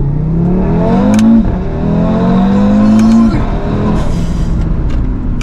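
Audi RS3's 2.5-litre turbocharged inline five-cylinder (DAZA) engine under hard acceleration, its note climbing through the revs and falling at an upshift about a second and a half in, then climbing again to a second upshift past three seconds, each shift marked by a short crack.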